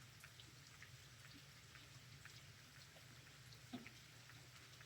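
Faint light rain: scattered drops ticking and dripping, with one slightly louder tap a little under four seconds in.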